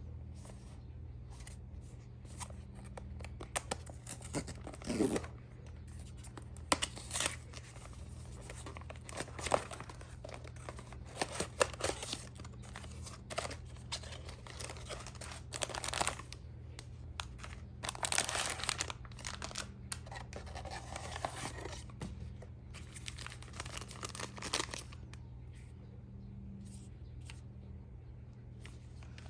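Packaging being torn open and crinkled by hand: irregular rustling, tearing and crackling in short bursts, busiest about two-thirds of the way through, over a faint steady low hum.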